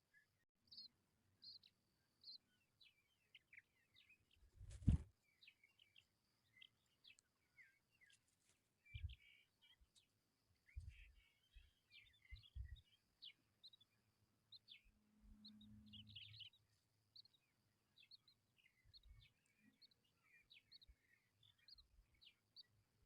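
Tawny pipit nestlings calling, with many short high chirps one after another throughout. A single loud knock about five seconds in, and a few dull low thumps later.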